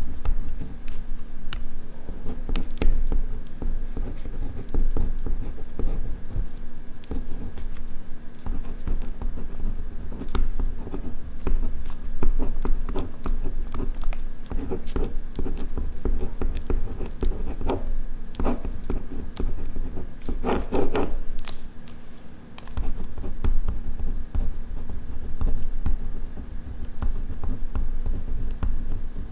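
Ballpoint pen writing on paper: continuous scratching strokes with small clicks and taps, and a louder burst of scraping about twenty seconds in.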